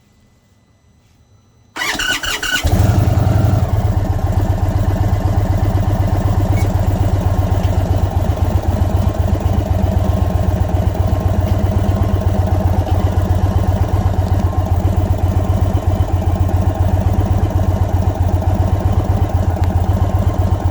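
Indian Sport Chief V-twin motorcycle engine starting: the starter cranks for under a second about two seconds in, the engine catches, revs up briefly, and settles into a loud, steady idle.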